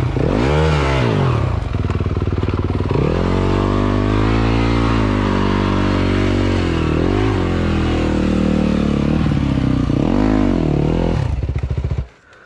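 Dirt bike engine revving hard, its pitch rising and falling with the throttle through several blips and a stretch of steadier high revs. The sound cuts off suddenly near the end.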